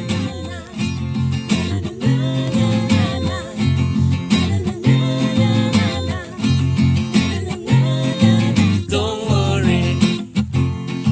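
Acoustic guitar strumming and an electric bass playing a reggae intro, with wordless singing with vibrato near the end.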